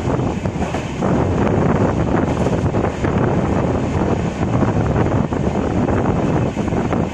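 Passenger train running at speed, heard from on board: a steady rush of wheel and track noise mixed with wind buffeting the microphone.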